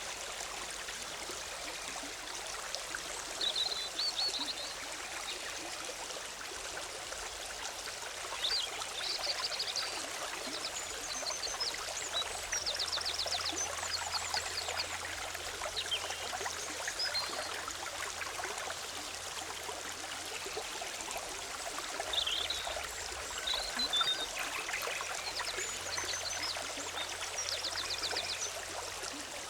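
Forest stream bubbling and trickling steadily over rocks, with small songbirds giving short chirps and rapid trills above it several times.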